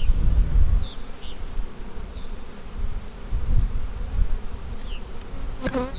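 Honey bees buzzing around an open hive during an inspection, a steady hum with one louder buzz briefly near the end.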